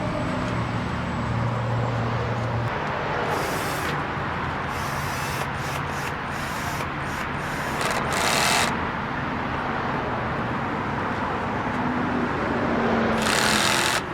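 Steady rumble of passing traffic and wind on the microphone, with several short rasping, scraping bursts from hand-tool work on the car's plastic air-intake parts.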